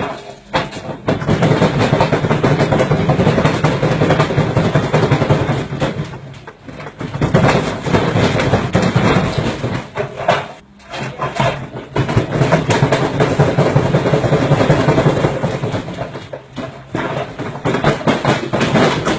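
Washing machine running with a loud, continuous rattling clatter, broken by short lulls about a third and halfway through and again near the end.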